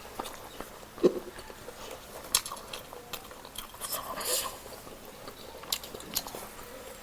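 Close-up eating sounds of a person biting and chewing roast chicken: scattered wet clicks and smacks, a sharp knock about a second in and another a little past two seconds.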